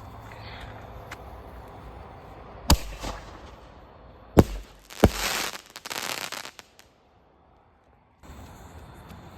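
Consumer fireworks going off: a sharp bang a little under three seconds in, then two more bangs in quick succession about a second and a half later. The last bang trails into about a second and a half of crackling hiss.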